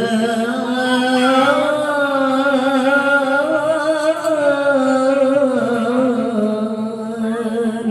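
A voice chanting a sholawat over a microphone, drawing out one long melismatic line that wavers slowly in pitch without a break.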